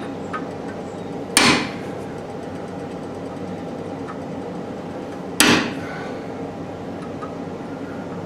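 Two hammer blows, about four seconds apart, on a hot stainless steel workpiece at the forge, each a sharp metallic strike with a short ring, over a steady background hum.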